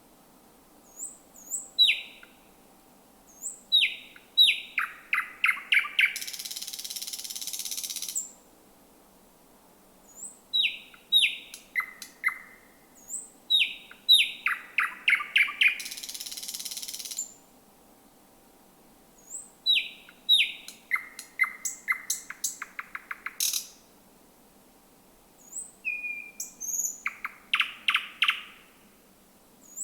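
Thrush nightingale singing: song phrases of sharp high whistles and rapid clicking notes, separated by pauses. The first two phrases end in a long harsh buzz of about two seconds, and another phrase begins near the end.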